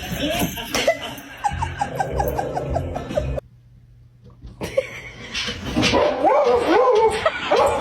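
A dog vocalising: a quick run of short yips in the first half, then after a brief pause, longer wavering whines.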